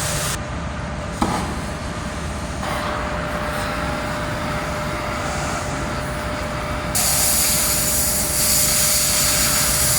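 Oxy-acetylene cutting torch hissing: a short click about a second in, then a steady gas hiss with a faint thin whistle, which jumps louder and brighter about seven seconds in.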